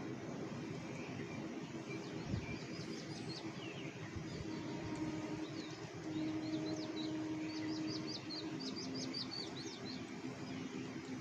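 Small birds chirping in quick runs of short high notes, thickest about three seconds in and again from about six to nine seconds in, over a steady low hum and background noise.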